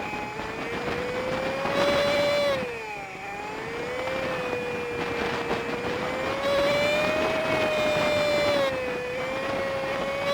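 Honda Super Cub 50's small single-cylinder engine running under way. Its pitch swells up and falls back several times with the throttle, dipping lowest about three seconds in, over a steady rush of wind and road noise.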